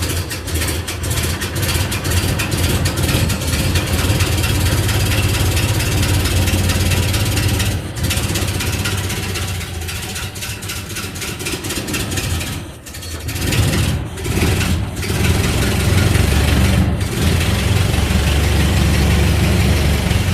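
Ford Model A's four-cylinder flathead engine running unevenly just after a cold start, having only just caught. It falters and almost dies about thirteen seconds in, then picks up and runs steadier and louder.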